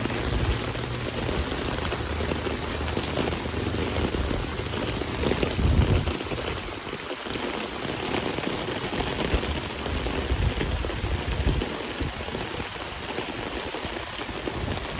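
Heavy downpour: a steady hiss of rain falling on pavement. Low rumbling swells come and go under it, the strongest about five to six seconds in.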